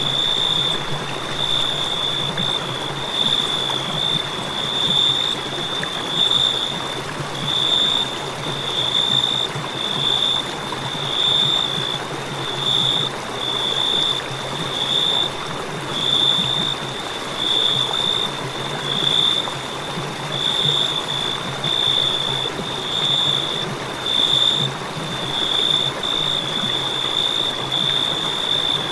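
Crickets chirping: a high, steady trill that swells and fades about once a second, over a constant hiss and low hum.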